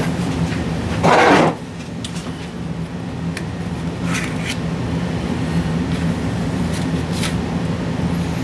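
A steady low machine hum with a few level tones, with a brief loud rush of noise about a second in and a few light clicks and rustles later.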